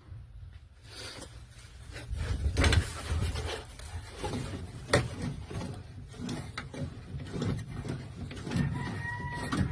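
Workshop handling noises: irregular knocks, clicks and rubbing of tools and parts being moved about, with a short squeak near the end.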